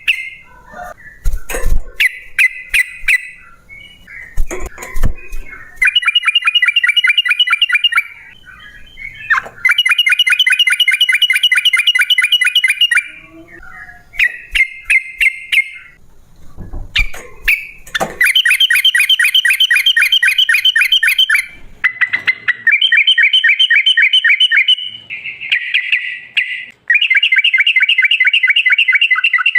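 Yellow-vented bulbul (trucukan) singing loud, long, rapid chattering rolls of two to four seconds each, with shorter phrases and sharp clicks between them.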